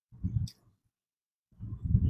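Chewing and mouth sounds close to a clip-on microphone: two short spells of low, muffled chewing with faint wet clicks, one just after the start and one near the end.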